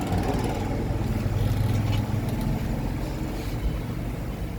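A steady low mechanical hum from a running motor, under an even noisy hiss.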